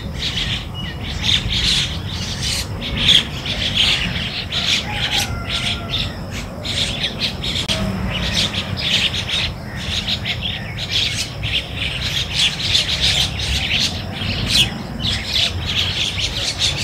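Birds chirping and calling in a busy, continuous chorus of many short chirps, over a steady low rumble.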